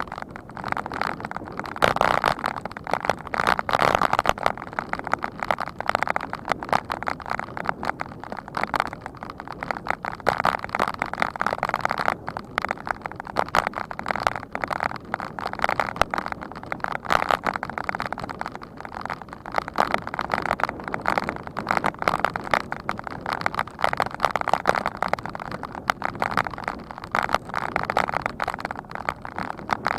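Continuous crackling rush of wind and road rattle on the camera of a moving bike, uneven and without a steady tone.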